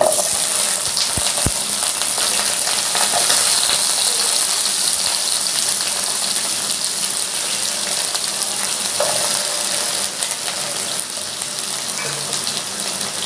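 Cut vegetables hitting hot oil in a kadai and frying: a loud, steady sizzle that starts suddenly as they go in, with a couple of soft knocks about a second in as pieces land in the pan.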